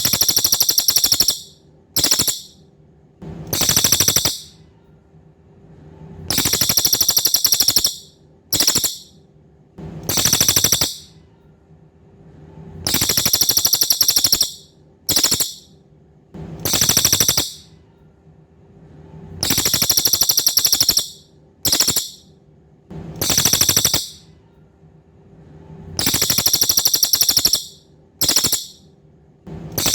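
Cililin bird song in a looped tutor recording: very high, rapid buzzing trills in a set phrase of a long trill, a short burst and a second trill, repeated identically about every six and a half seconds.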